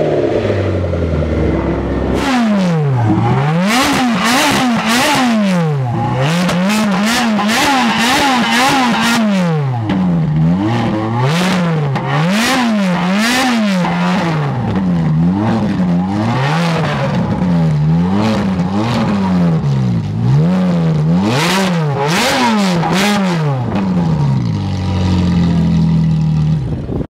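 Supercar engine with a modified exhaust being blipped hard over and over while standing still, about one rev every second or so. Each rev rises and falls in pitch, with sharp crackles at many of the peaks. It settles back to a steady idle near the end.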